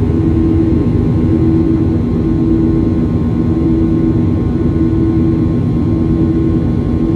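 Steady cabin roar of a Boeing 737-800's CFM56-7B jet engines, heard from inside the cabin, with a low hum that swells and fades every second or two.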